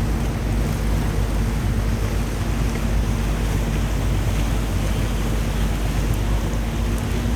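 Water taxi under way: its engine running steadily with a low hum, water rushing past the hull, and wind buffeting the microphone.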